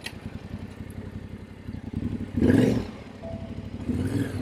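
Yamaha Ténéré 700's parallel-twin engine running at low speed in town traffic, with a louder rush of noise about halfway through.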